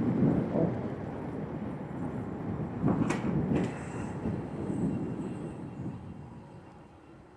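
Wind and road rumble while riding a Dongdo S8 electric scooter uphill, fading steadily over the seconds, with a sharp click about three seconds in.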